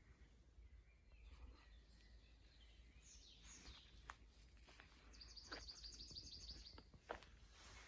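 Faint songbirds calling in a spring forest: scattered chirps and sweeping calls, then a rapid high trill in the middle, over a steady low rumble of background noise.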